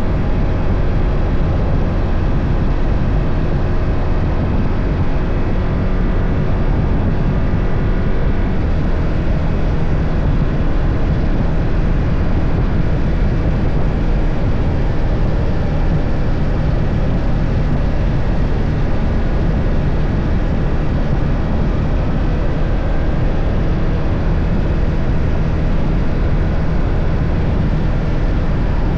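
BMW F 800 GS parallel-twin motorcycle engine running steadily while riding, with wind rush over the microphone.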